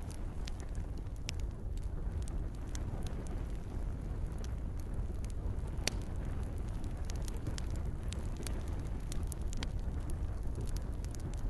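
Campfire crackling, with frequent sharp pops and snaps over a steady low rumble of burning wood, and gentle rain falling.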